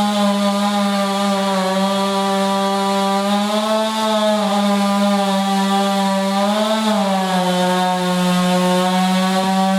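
Chainsaw running at high revs with a steady, even engine note. It is likely cutting into wood. About seven seconds in, the pitch sags slightly and stays a little lower.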